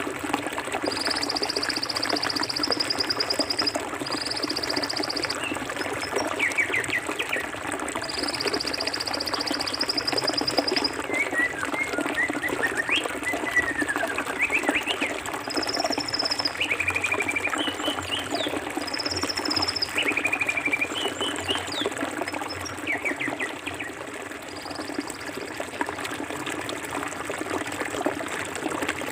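Forest river flowing steadily over rocks, with birds calling over it: a high trill repeated three times in the first ten seconds or so, then scattered short chirps and whistled notes.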